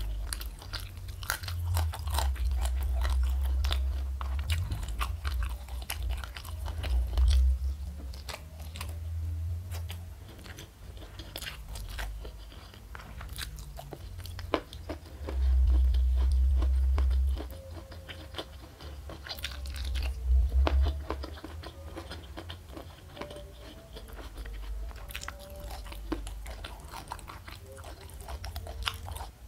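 Close-miked chewing and biting of crunchy food, with many sharp crunches and several stretches of low rumble.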